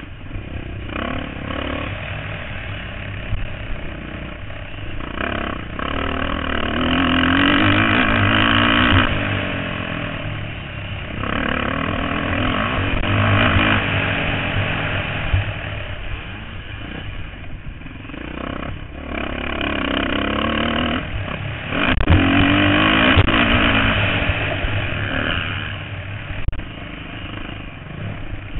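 Motocross bikes racing, engines revving up and dropping off again and again, growing loud in several swells as bikes pass close.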